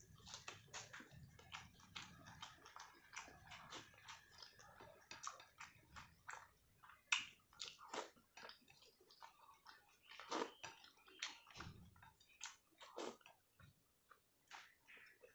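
Close-miked wet chewing of a soft mouthful of rice and dal eaten by hand, with many short sticky mouth clicks and lip smacks.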